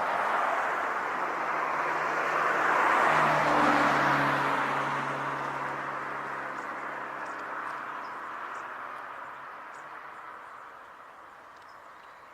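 A car passing by: tyre and engine noise builds to its loudest about three to four seconds in, then fades away slowly.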